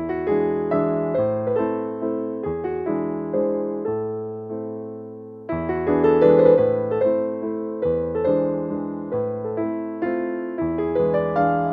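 Background piano music: gentle notes struck in a steady rhythm, briefly quieter about five seconds in.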